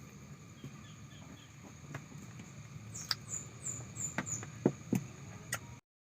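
Scattered clicks and a few crisp crunches as someone bites and chews sour green mango, the loudest near the end. About three seconds in comes a quick run of five short, high chirps from a small animal.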